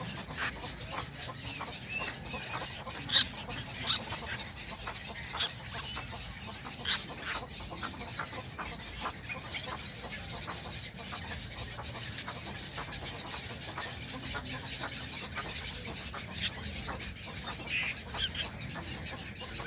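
Young egrets calling at the nest: a steady run of short clucking and clicking calls, with a few louder calls standing out.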